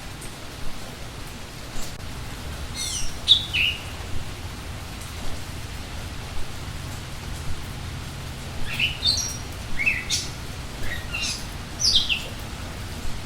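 Steady rain falling, with songbirds singing short chirping phrases of quick falling notes: a first burst about three seconds in, then a run of several phrases in the second half.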